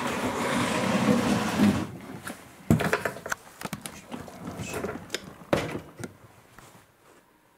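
Objects being shifted and handled by hand: a scraping, rustling noise for about two seconds, then a sharp knock followed by a string of lighter clicks and knocks that die away.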